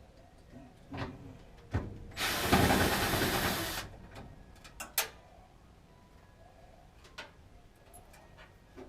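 Power drill with an 8 mm deep socket running for about a second and a half, backing out a screw from a furnace draft inducer blower. Scattered sharp clicks and knocks of tool and part handling come before and after it.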